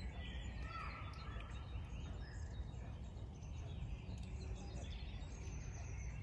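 Several birds chirping and calling, in short scattered calls, over a steady low rumble.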